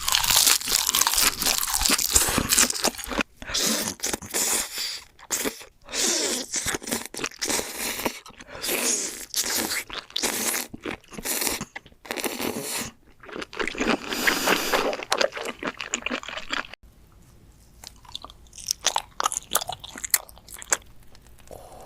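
Eating sounds: loud crunching bites and chewing of crunchy food, in dense bursts, dropping to quieter, scattered crunches for the last few seconds.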